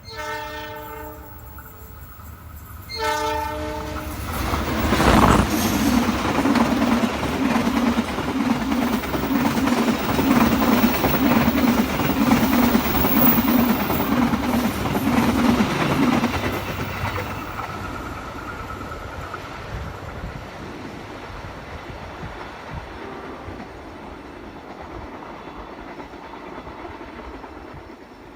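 Train horn sounding twice, a blast at the start and another about three seconds in, then a long train passing close at speed: locomotive engine hum and wheel clatter loud for about twelve seconds, then easing as the carriages roll by.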